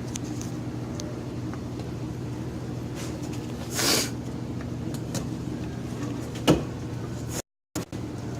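Freshly built Honda B16A2 1.6-litre DOHC VTEC inline-four with forged pistons and rods, idling steadily. A short hiss comes about four seconds in and a sharp click about two and a half seconds later, and the sound drops out for a moment near the end.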